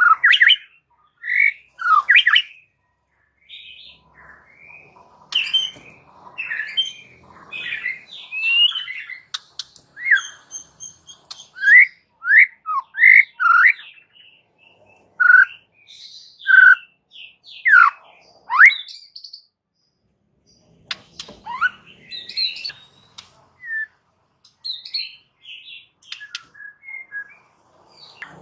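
White-rumped shama (murai batu) in full song: a string of loud, clear whistles sweeping up and down, mixed with quick high twittering and a fast high trill, in phrases broken by short pauses.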